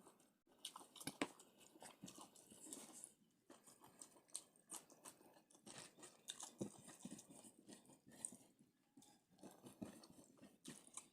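A person chewing and biting food close up, with irregular crunchy clicks and crackles; the loudest crunch comes a little over a second in.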